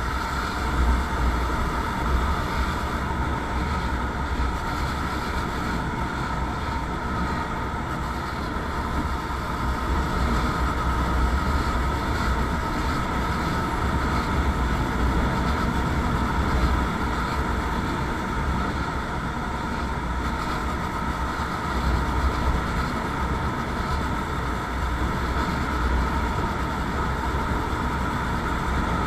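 Motorcycle running steadily on the move, its engine drone mixed with heavy low wind rumble on the microphone.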